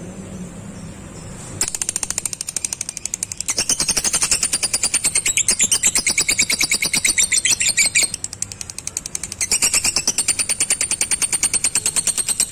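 Lovebird's long 'ngekek' chatter: a very fast, even string of sharp high-pitched notes. It begins about a second and a half in, breaks off for about a second after eight seconds, then runs on again.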